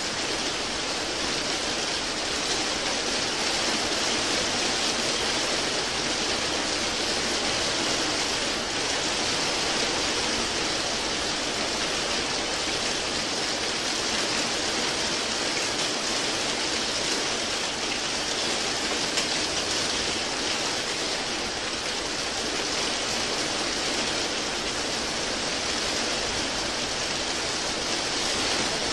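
Steady rain falling, a dense, even hiss of rainfall with no distinct drops or breaks.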